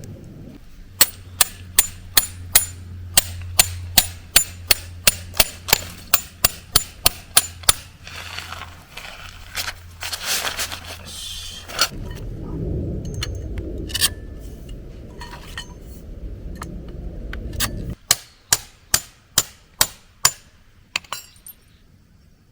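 Hammer driving a metal tent peg into the ground: a fast, steady run of about twenty sharp ringing strikes, then handling and rustling, then a second run of about seven strikes.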